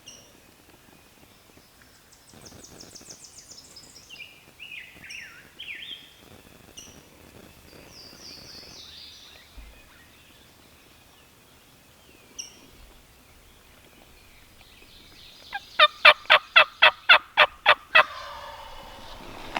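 Songbirds chirping and trilling, then near the end a loud series of about a dozen turkey yelps, about five a second and close by.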